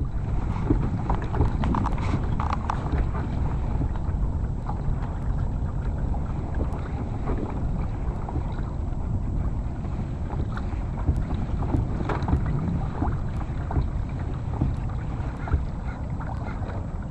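Steady wind rumble on the microphone out on open water, with water lapping and small splashes and knocks around a kayak.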